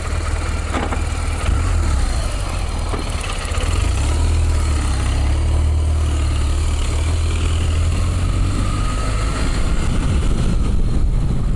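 Motorcycle engine running, heard through a helmet-mounted microphone as a steady low rumble with wind and road noise, getting louder about four seconds in.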